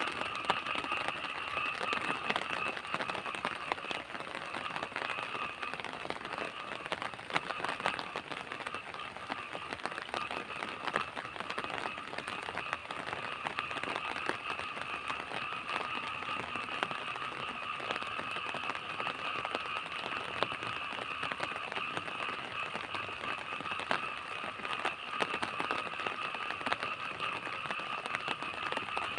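Rain falling steadily at night, a dense patter of drops, over a steady high-pitched drone.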